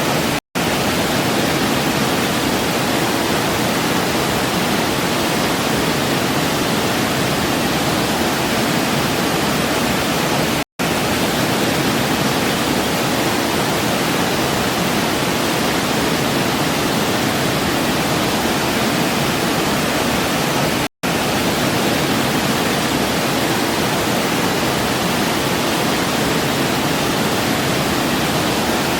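Waterfall rushing in a steady, even hiss. The sound cuts out for a split second three times, about ten seconds apart.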